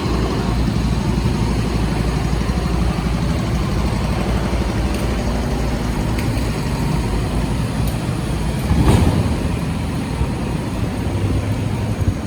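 Road traffic on a wet city street: vehicle engines running with a steady rumble, and one vehicle passing louder about nine seconds in.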